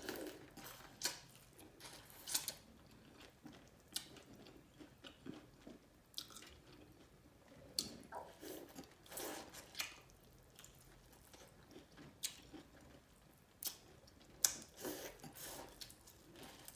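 Close-miked biting and chewing of boiled corn on the cob, the kernels being torn off the cob and crunched in irregular sharp clicks.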